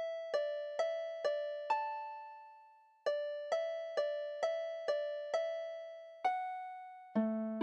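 Slow single-note melody in a bright, piano-like tone, each note struck sharply and fading away; repeated notes at about two a second, a pause near the second note-held moment, then a lower chord note joins near the end.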